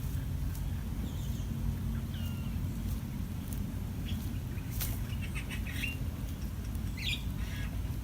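Birds chirping in short bursts over a steady low rumble, with a single sharp click about five seconds in.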